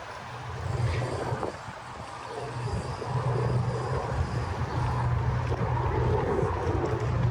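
Steady low engine hum, easing briefly about two seconds in and then holding, with some wind on the microphone.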